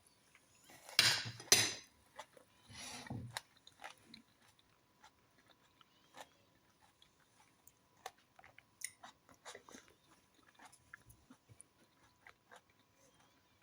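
A person biting and chewing crunchy food up close, with a few loud crunches in the first three seconds, then quieter chewing and small clicks.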